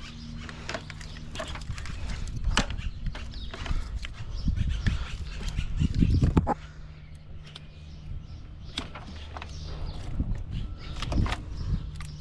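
Scattered clicks and knocks of hand work on a truck's wiring and connectors, over a steady low hum. A louder low rumbling stretch builds from about four seconds in and cuts off sharply about six and a half seconds in.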